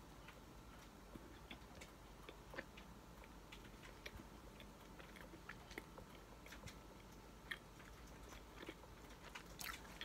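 Faint mouth sounds of a person biting into and chewing a soft jelly-filled donut, heard as scattered small clicks over quiet room tone.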